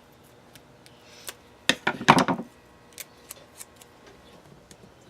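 Scissors cutting pieces of duct tape: a few short sharp snips, the loudest run of them about two seconds in, then single clicks.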